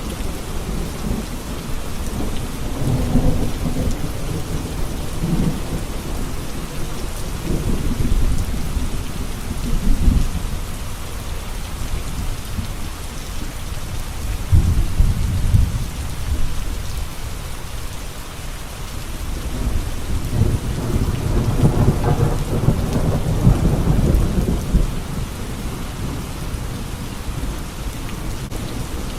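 Steady rain falling, with low rolling rumbles of thunder that swell and fade four times.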